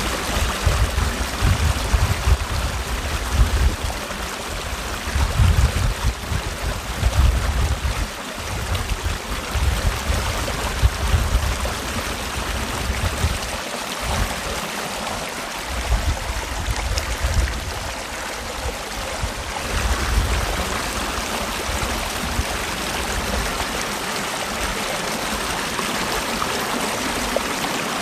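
Mountain valley stream: steady rushing and trickling water. Irregular low rumbles swell and drop away under it through the first two-thirds, then die out.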